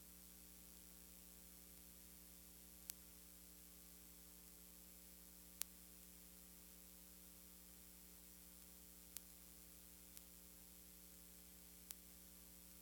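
Near silence: a steady electrical mains hum and hiss in the recording, broken by five faint clicks.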